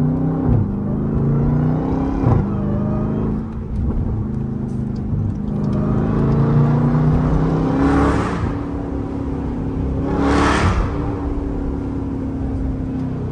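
Jeep Grand Cherokee Trackhawk's supercharged 6.2-litre Hemi V8 under way, with supercharger whine. The engine note climbs steadily and drops abruptly at each upshift, a few times over. Two brief rushing whooshes come through later on.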